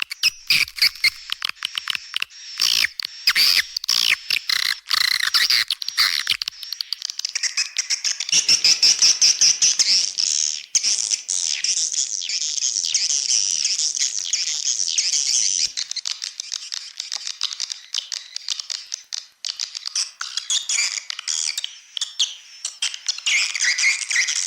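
Recorded calls of edible-nest swiftlets, dense high-pitched chirping and twittering, played as a lure sound to draw swiftlets into a swiftlet house. For the first six seconds or so it comes as quick separate chirps, then runs on as a continuous twitter.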